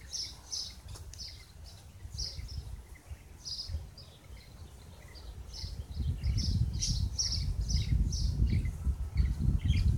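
A bird chirping over and over, short high chirps about two or three a second, with a low rumble growing louder about halfway through.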